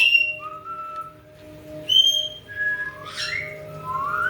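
Caique parrots whistling: a string of short, clear whistled notes, some held on one pitch and some sliding upward, opening with a loud upward-sweeping whistle.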